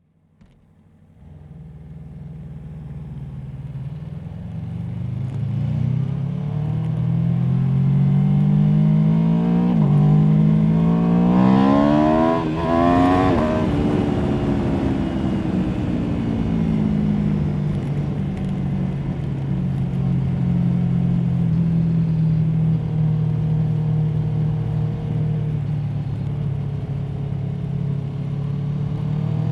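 Aprilia Tuono V4 motorcycle's V4 engine under way: revs climbing under acceleration, an upshift about ten seconds in, a peak a few seconds later, then easing off into a long steady cruise, with revs rising again near the end.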